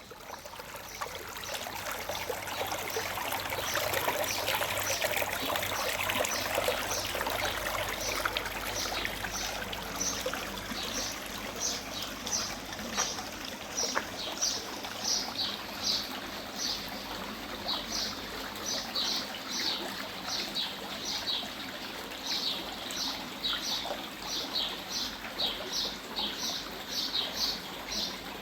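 Running water trickling, swelling over the first few seconds, with a small bird chirping over it in a long series of short high notes, about two a second, plainer in the second half.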